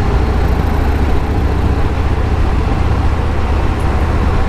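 Motorcycle riding at speed: a steady rush of wind and road noise over the microphone, with the engine's low drone underneath.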